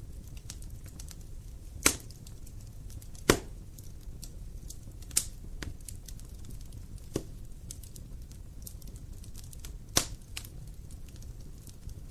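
Wood fire burning with a low steady rumble, light crackling and a handful of sharp pops from the burning logs.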